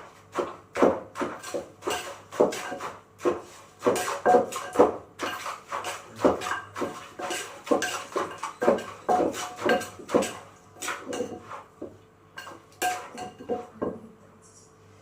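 Pestle knocking in a mortar as a pounded salad is worked and mixed, with irregular knocks about two a second, some ringing briefly. The knocks stop about a second before the end.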